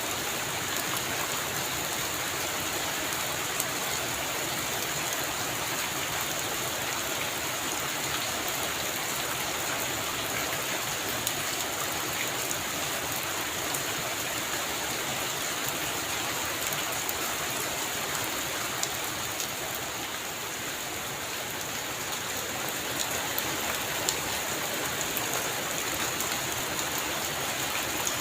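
Heavy rain falling steadily on a roof, a dense even hiss with scattered sharper drop ticks, easing slightly about two-thirds of the way through.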